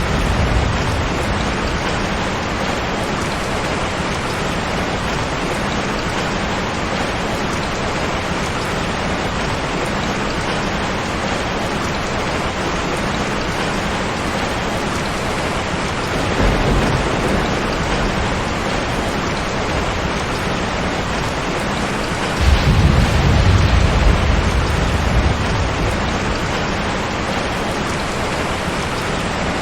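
Steady rain falling, with thunder rumbling twice: a short, fainter rumble about halfway through and a louder one that breaks in suddenly about three-quarters of the way through and rolls on for a few seconds.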